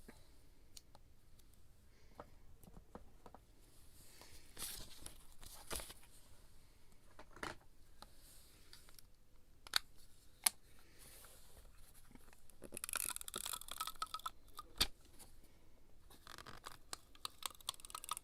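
Scrapbooking paper and tape handled close to the microphone: a few short spells of tearing and rustling between scattered light clicks and taps, with two sharper clicks near the middle.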